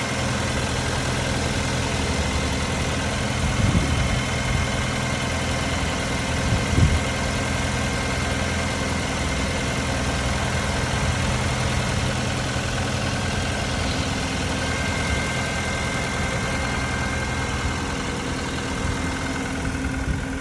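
2014 Nissan Sentra's 1.8-litre four-cylinder engine idling steadily, with a faint high whine over the idle. Two short louder blips come about 4 and 7 seconds in.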